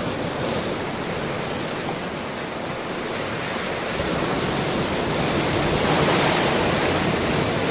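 Ocean surf: a steady wash of breaking waves, with one swell building and peaking about six seconds in.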